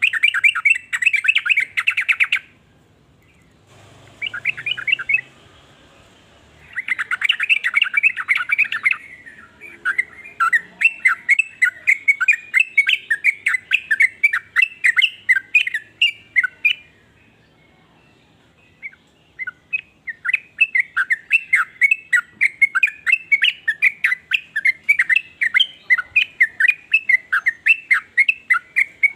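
Yellow-vented bulbul (trucukan) calling: short bursts of fast chattering, then long runs of sharp, quickly repeated notes, about three or four a second, broken by a pause of about two seconds a little past the middle.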